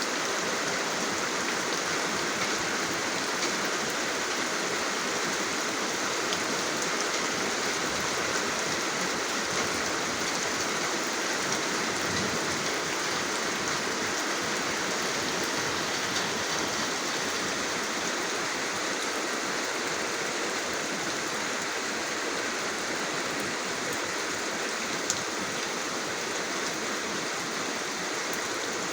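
Steady rain falling, an even hiss flecked with faint drop ticks, with one sharper drip about 25 seconds in.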